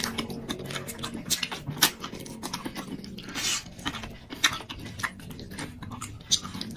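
A person eating: irregular wet chewing and lip-smacking clicks, with a brief breathy noise about three and a half seconds in.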